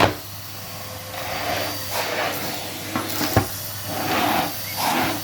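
Handling noise from cleaning with a Henry vacuum cleaner: a sharp knock at the start, two more knocks a little after three seconds in, and bursts of scraping and rustling over a low steady hum.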